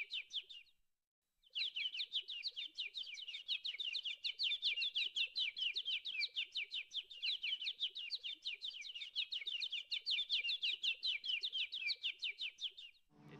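A bird chirping in a fast, even series of short notes, about six a second, with a brief pause about a second in.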